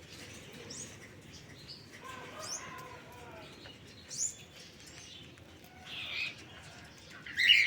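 Cockatiels giving short, high, rising chirps every second or so, with a louder harsh burst of sound near the end.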